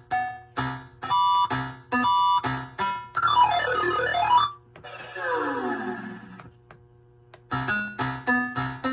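Bally Xenon pinball machine's Sounds Plus sound board playing synthesized game sound effects during play: a string of short electronic beeps, a tone that sweeps down and back up around the middle, then a cluster of falling glides. After a brief lull, more quick beeps come near the end.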